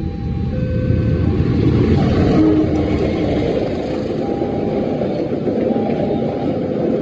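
KA Logawa passenger train passing close by, a loud steady rumble and rush of wheels and carriages on the rails that swells about two seconds in.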